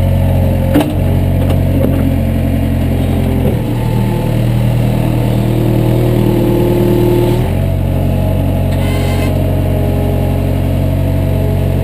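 Engine running steadily just after starting, its speed shifting about three and a half seconds in and shifting back about seven and a half seconds in.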